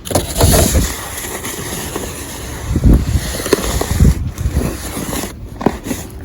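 Snowstorm wind blowing across the microphone, a steady rushing with several low buffeting thumps.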